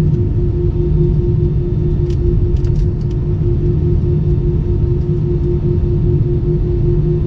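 Airbus A320 engine and airflow noise heard inside the cabin: a steady low rumble with a constant hum over it, and a few faint clicks about two to three seconds in.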